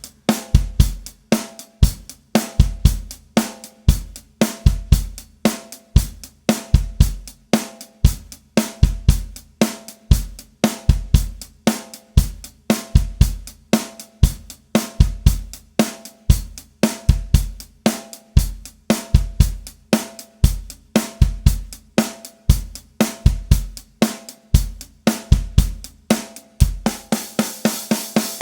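Drum kit alone playing a steady rock beat: bass drum, snare and hi-hat in an even repeating pattern, with a cymbal crash at the very end.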